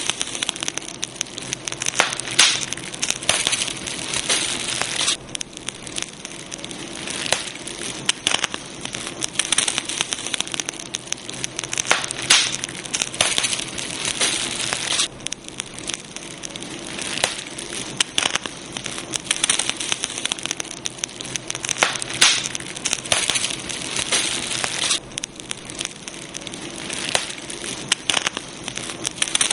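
Wood fire burning, with a dense run of irregular crackles and pops over a steady hiss.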